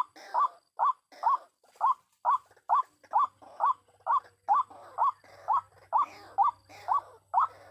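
White-breasted waterhen's repeated 'kruak' call: short rising notes at a steady rhythm, a little over two a second.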